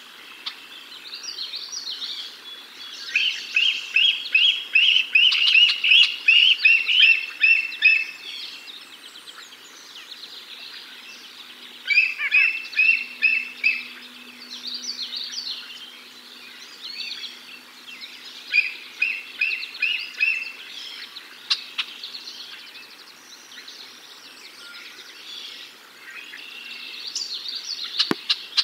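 Birds calling in treetops, with loud runs of quick, repeated chirping notes, several a second, coming in four bouts. Softer, higher chirps go on between the bouts.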